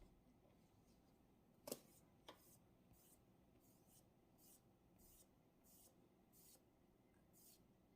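Faint scratching of a pen writing on paper, in short strokes repeating roughly every 0.7 s, after two light clicks about two seconds in.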